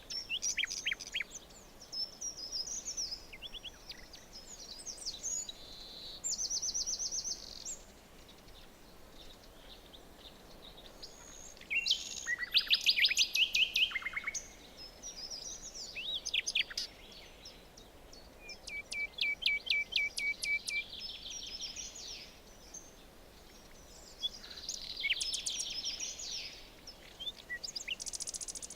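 Several songbirds singing in a forest, overlapping phrases of high trills and quick runs of repeated notes over a faint steady background hiss. The loudest burst of song comes about twelve seconds in, and a slower, evenly paced trill follows around the twenty-second mark.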